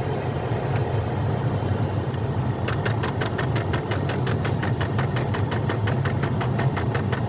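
Rapid, even clicking from a faulty actuator in a 2016 Jeep Patriot, about six clicks a second, starting a little under three seconds in, over the steady hum of the idling engine.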